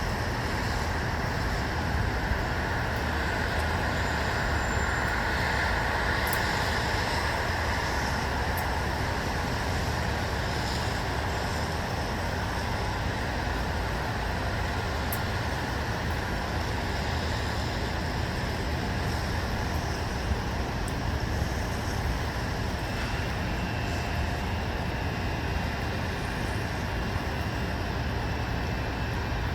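Steady hum of distant road traffic: a constant, even noise with no distinct events.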